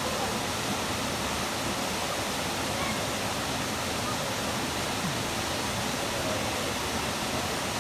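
Waterfall pouring down: a steady, unbroken rush of falling water.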